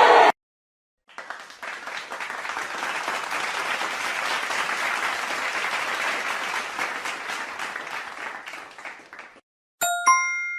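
Applause sound effect: a crowd clapping for about eight seconds, thinning out near the end. About ten seconds in comes a single sharp strike that rings on with a few clear tones and fades.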